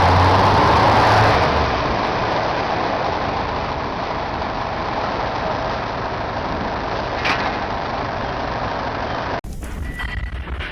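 Loud, steady rushing noise with a low hum under it for the first second or so. It cuts off abruptly near the end to quieter sound with a few knocks.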